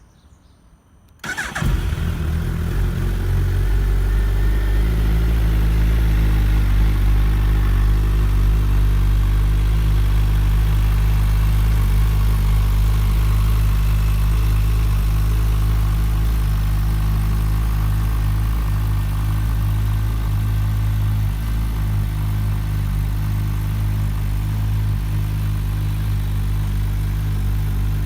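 2022 Suzuki Hayabusa's 1340 cc inline-four engine starting about a second in, catching at once and settling into a steady idle.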